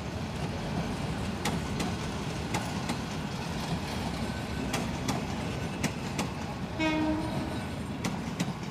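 Passenger train coaches rolling past: a steady rumble of wheels on rail with scattered sharp clicks as the wheels cross the rail joints, and a short pitched tone about seven seconds in.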